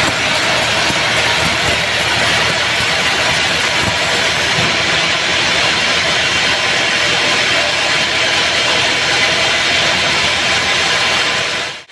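Homemade sawmill bandsaw running steadily, a loud continuous motor-and-blade noise. It drops out abruptly right at the end.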